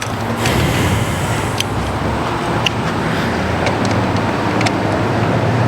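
A motor vehicle's engine and road noise swelling up and holding steady, with a few small sharp clicks over it.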